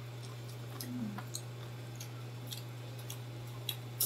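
Mouth-close chewing of crispy fried pork intestine and pork lung: sparse small crunches and wet clicks, with a few louder ones about a second in and near the end, over a steady low hum.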